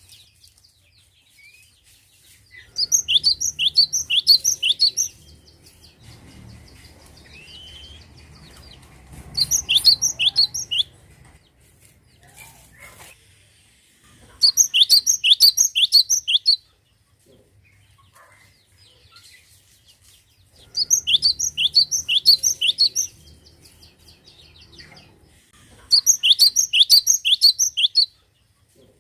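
Cinereous tit (glatik batu) singing: five bouts of short, high, down-slurred notes, about six notes to a bout, each bout lasting about two seconds with pauses of a few seconds between.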